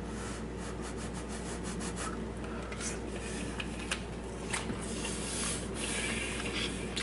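A person chewing a mouthful of fried rice right at the microphone: rubbing, scratchy mouth noise with scattered small clicks.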